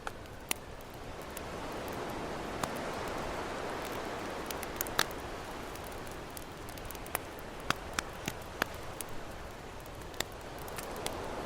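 Campfire crackling with scattered sharp pops, a few louder ones in the middle, over the wash of ocean waves that swells and recedes.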